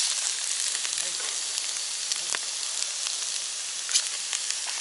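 Shiso-wrapped pork rolls sizzling as they fry in a pan, a steady hiss with a few sharp clicks.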